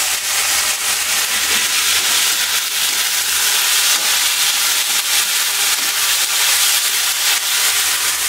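Green chickpeas and chopped onion sizzling steadily as they fry in a kadhai on a gas stove, stirred with a spatula.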